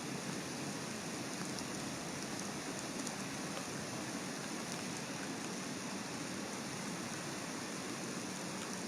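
Steady rain falling, an even hiss, with a few faint drops ticking close to the nest-cam microphone.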